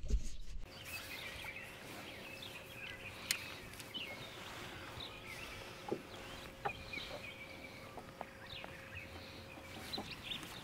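Birds chirping and calling, many short calls scattered throughout, with a faint steady hum underneath and a few light clicks.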